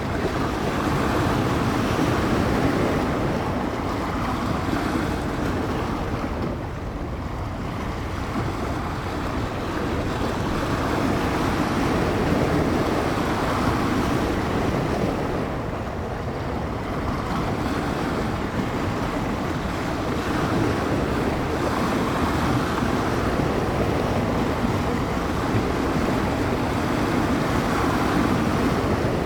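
Wind-driven bay waves washing and breaking on the shore, a continuous rushing that swells and eases over several seconds, with wind buffeting the microphone.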